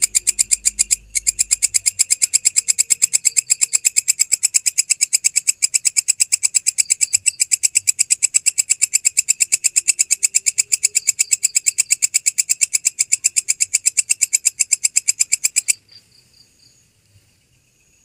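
A singing grasshopper-family insect (belalang) calls in a loud, high, rapid pulsing trill of about five pulses a second. It breaks once near the start and cuts off suddenly near the end, leaving fainter high insect chirping.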